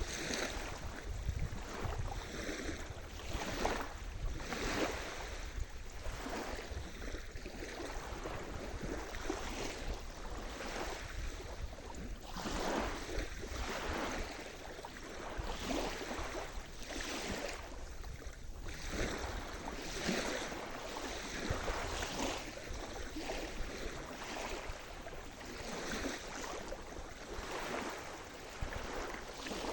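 Sea surf: waves washing and breaking on the shore one after another, each swell rising and falling every second or two, over a steady low rumble.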